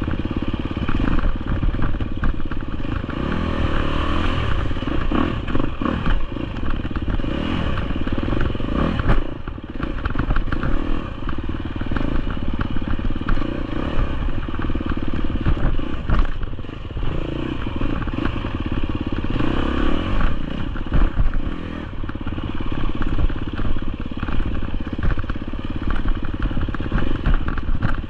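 A GasGas EX250F's 250cc four-stroke single-cylinder engine running while the bike is ridden off-road, throttle rising and easing off again and again. Many short knocks and rattles sound throughout.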